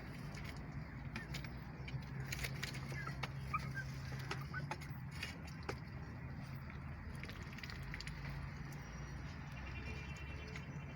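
Rooftop poultry, young ducks and chickens, giving a few soft short calls over a steady low hum, with scattered faint clicks.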